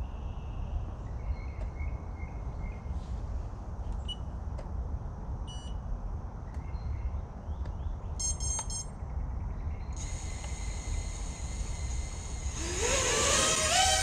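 A 5-inch FPV racing quad's motors are heard as a high whine. It builds from about ten seconds in and rises in pitch near the end as the quad throttles up, over a steady low rumble. A short electronic beep sounds about eight seconds in.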